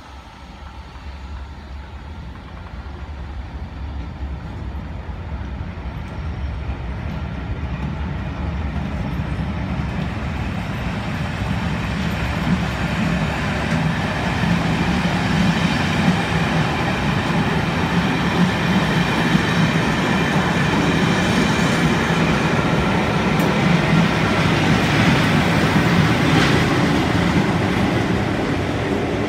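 A locomotive-hauled train of coaches, with a towed new TransPennine Express Nova 3 unit, rolling past on the rails with steady wheel noise. It grows louder through the passage and is loudest near the end as the rear Class 47 diesel locomotive comes by.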